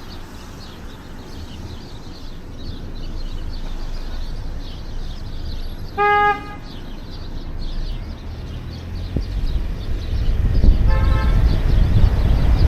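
A car horn gives one short, loud honk about six seconds in, and a fainter horn sounds briefly near the end, over steady street-traffic rumble that grows louder in the last few seconds.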